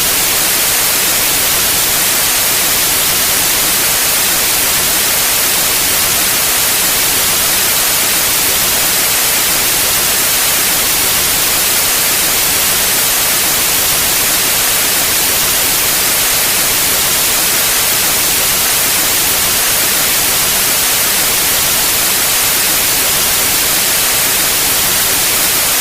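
Steady white noise: an even, unchanging hiss with no pattern.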